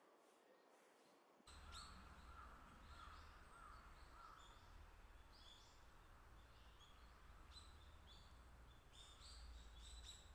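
Small songbirds calling with quick, high chirps over a low rumble, starting suddenly about a second and a half in.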